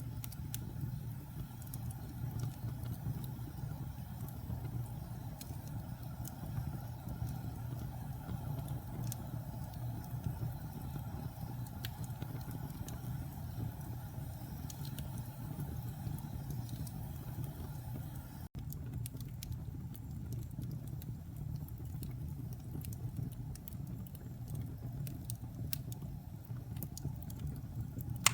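Wood fire burning in a fireplace: a steady low rumble with scattered small crackles and pops, broken by a brief dropout about two-thirds of the way through.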